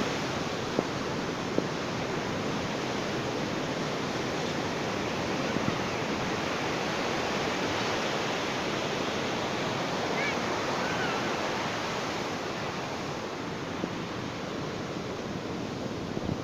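Ocean surf washing onto a beach, a continuous rushing wash that swells a little midway and eases slightly in the last few seconds.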